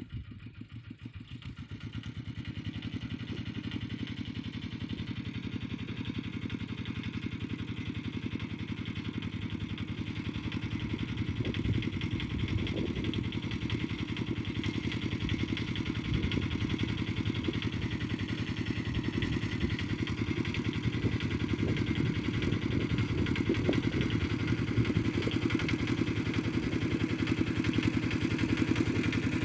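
A tractor engine running steadily under load while ploughing, with a fast, even pulse, gradually growing louder.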